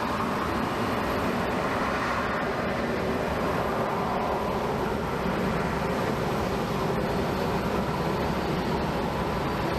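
Jet airliner's engines at takeoff power, a steady noise that holds level throughout.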